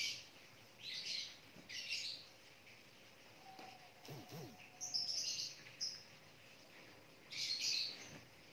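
Short, high-pitched bird chirps, five or so at irregular intervals.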